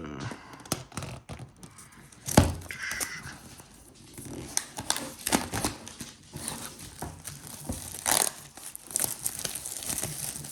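Packaging on an iPad mini box being torn and crinkled open, with many small handling clicks and one sharp knock about two and a half seconds in.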